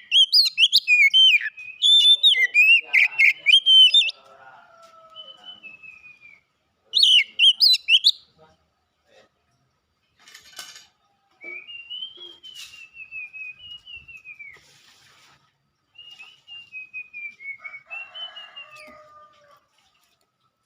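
Oriental magpie-robin (kacer) singing: loud, rapid, varied phrases in the first four seconds and again briefly about seven seconds in, then softer drawn-out whistled notes that slide down in pitch.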